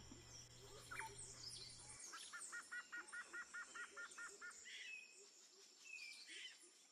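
Faint bird calls: a quick, even run of about ten chirps in the middle, with a few scattered calls around it.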